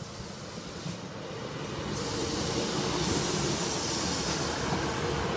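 Northern Class 153 single-car diesel railcar passing the crossing. Its engine and wheel noise grow louder about two seconds in and stay loud, with a steady hum under the noise of the rails.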